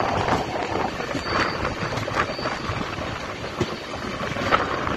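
Passenger train running, heard from aboard at an open window: a steady rumble and rattle of wheels on the track with scattered clicks.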